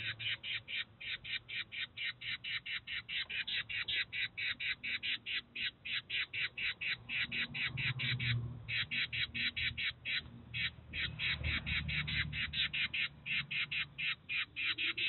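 A bird's short harsh call, repeated steadily about five times a second, with two brief breaks past the middle.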